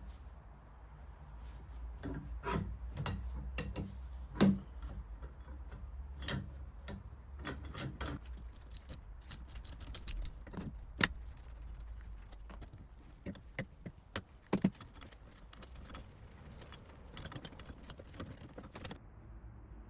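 Irregular metallic clinks and knocks of hand work on a rusty bench vice and its small parts, the sharpest strikes about a quarter, half and three quarters of the way through, over a steady low hum.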